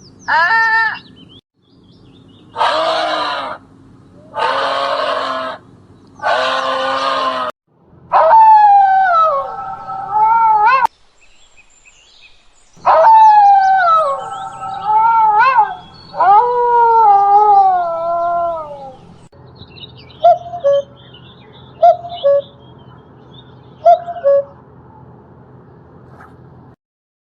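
A run of animal calls: three harsh cries about a second each, then long wavering howl-like calls that slide down in pitch, then a few short chirps near the end.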